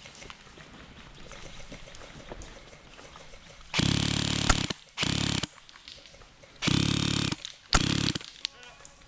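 Airsoft gun firing four fully automatic bursts, each under a second, with a buzzing motor-and-gearbox sound; two sharp cracks come among them.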